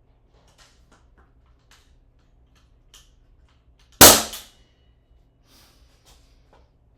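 Ramset powder-actuated nail gun firing once, one sharp bang about four seconds in that dies away within half a second as it drives a fastener. Faint clicks and handling knocks come before it.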